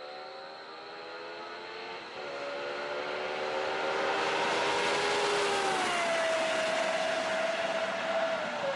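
Supercar engine accelerating hard: its pitch climbs, drops sharply on an upshift about two seconds in, then climbs again and grows louder before levelling off.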